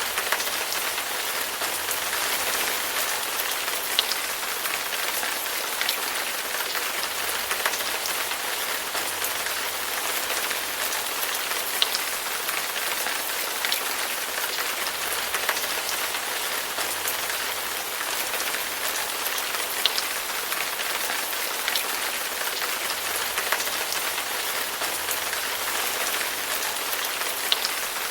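Steady rain falling and pattering on a surface, an even hiss with scattered louder individual drops.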